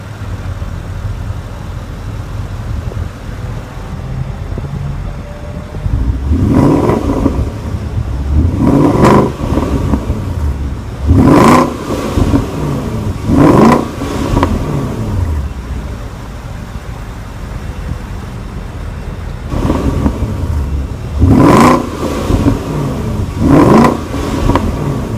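Porsche Cayenne GTS's 4.8-litre V8 idling through its exhaust, then blipped in a series of about six quick revs that rise and fall back to idle.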